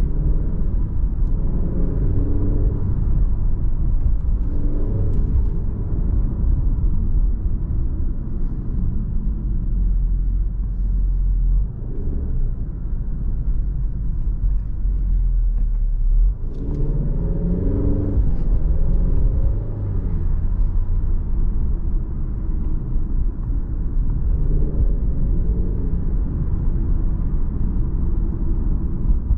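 2022 Alfa Romeo Giulia Veloce's 2.0-litre turbocharged four-cylinder engine heard from inside the cabin over steady low road rumble while driving in town. The engine note rises in pitch three times as the car accelerates, most strongly about seventeen seconds in.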